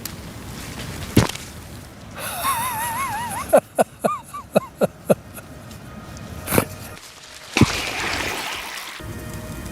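Squirting cucumber (Ecballium) pods bursting and squirting out their seeds under built-up pressure: a sharp pop about a second in, a quick run of about seven pops a few seconds later, and a louder burst with a wet spray near the end.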